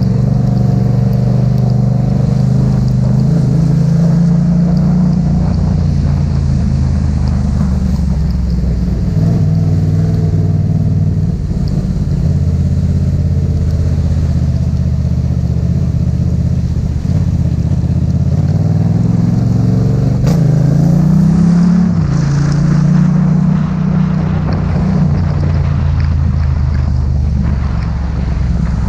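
Yamaha MT-07's 689 cc parallel-twin engine running under a rider, its pitch holding steady for stretches, then dropping and climbing as it is throttled; about twenty seconds in it revs up sharply, then settles to a steady pull.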